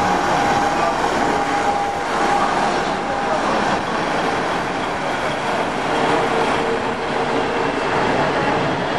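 Passenger train rolling past along the platform: a steady, continuous rumble of coaches on the track. A whine sits over the rumble for the first few seconds and is followed later by a lower hum.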